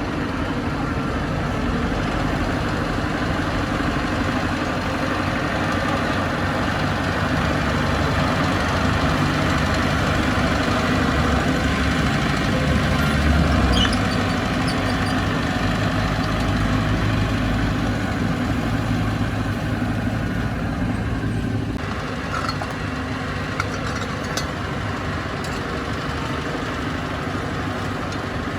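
Bulldozer's diesel engine running steadily, working harder through the middle and easing back about three-quarters of the way through, with a few light clanks near the end.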